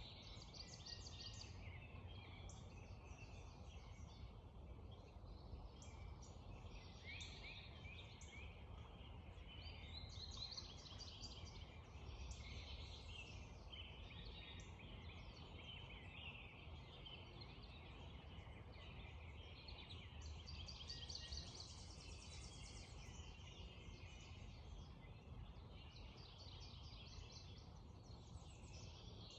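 Spring dawn chorus: many songbirds singing at once, overlapping chirps and trills with no break, over a faint, steady low rush.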